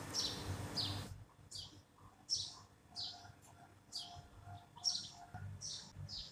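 A small bird chirping over and over, a short high falling chirp about every three-quarters of a second. A hiss in the first second cuts off abruptly.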